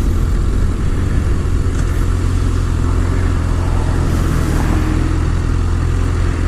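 Motorcycle engine running steadily at low riding speed, with a steady rush of wind over the microphone.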